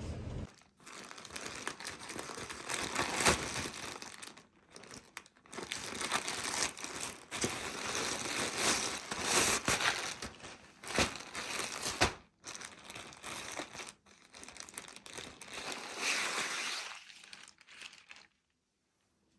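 Packaging being handled and crumpled, in irregular crinkling bursts that stop abruptly near the end.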